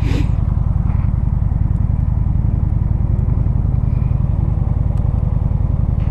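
Motorcycle engine running steadily while riding, a constant low pulsing rumble, with a short rush of noise right at the start.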